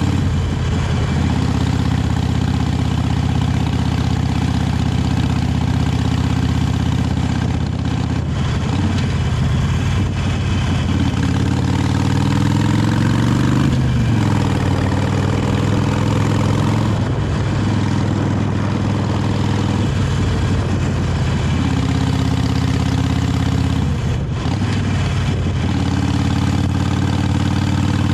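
Harley-Davidson 883 Iron's air-cooled V-twin on its stock exhaust, running steadily under way. About halfway through the pitch climbs as it accelerates, then breaks off at a gear change. It backs off the throttle briefly a few more times.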